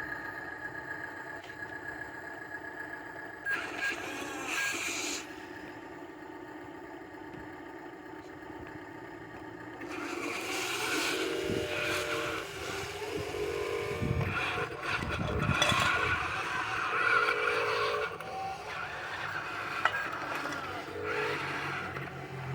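Dump truck's diesel engine running with a steady drone, growing louder and rougher about ten seconds in.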